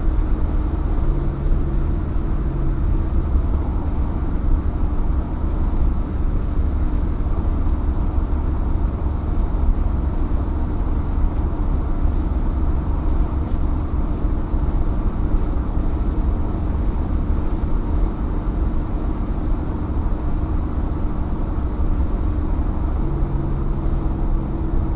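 Chevrolet Impala's 327 V8, with a Holley four-barrel and 2.5-inch exhaust, cruising steadily at highway speed. There is a constant exhaust drone over heavy road and tyre rumble from a rough road surface.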